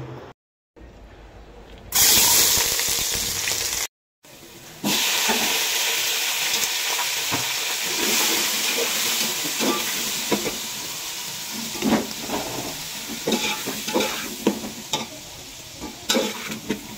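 Diced potatoes, peas and onions frying in hot oil in a metal pot, sizzling loudly from about two seconds in. From a few seconds later, a metal spoon scrapes and knocks against the pot as the mixture is stirred.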